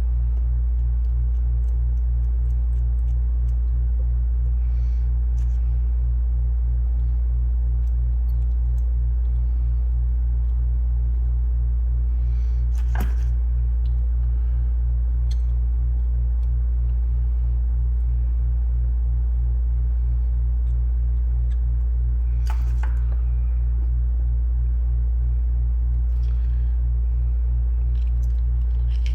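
Steady low electrical hum, loud and unchanging, with a faint fizz above it. Two sharp clicks sound, one about halfway through and one a while later.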